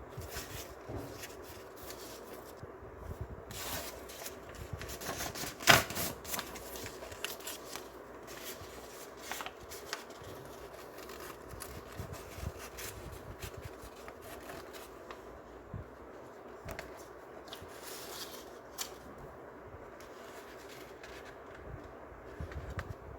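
A sheet of paper being folded and creased by hand: rustling and crinkling with scattered small crackles, and one sharp crack about six seconds in.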